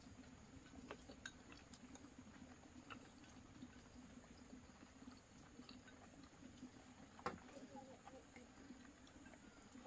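Near silence: a faint steady low hum with scattered faint clicks, and one sharper click about seven seconds in.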